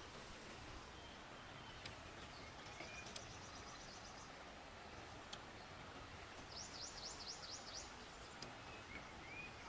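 Faint, steady rush of a forest stream with songbirds calling over it. There are several short rising whistles, a fast high trill a few seconds in, and a quick run of about six high notes about two-thirds of the way through.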